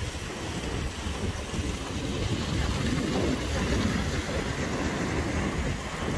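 Steady heavy rain hiss with a low rumble underneath that swells about three seconds in and eases near the end.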